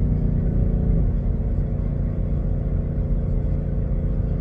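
2017 Mustang GT's 5.0-litre V8 running while the car is driven, heard from inside the cabin over low road rumble; the engine note fades about a second in, leaving mostly the rumble.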